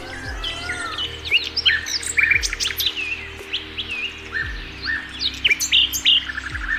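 Small birds chirping and tweeting in many quick, short calls. Underneath sits soft background music: a steady low drone with a deep falling bass note about every two seconds.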